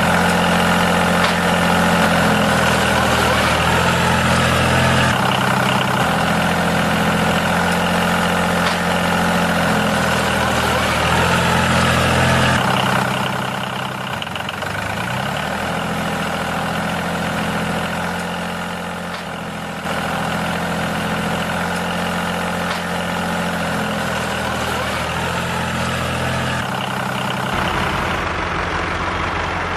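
A motor running steadily with a droning hum, its pitch and level shifting abruptly several times.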